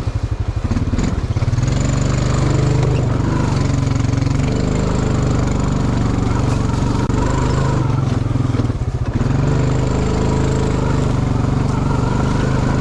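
Honda Rancher ATV's single-cylinder four-stroke engine puttering, then opening up about a second in and pulling steadily through a creek crossing. It eases off briefly about two-thirds of the way through, then picks up again.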